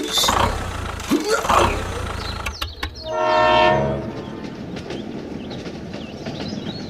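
A single horn blast lasting just under a second, about three seconds in, over a steady low hum.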